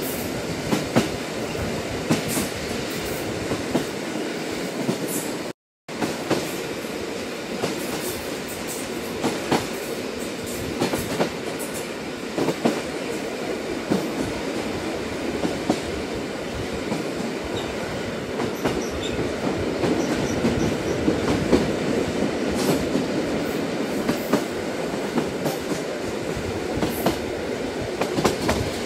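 A train running on the rails: a steady rumble with frequent irregular clicks and clacks from the wheels. The sound cuts out completely for a split second about six seconds in.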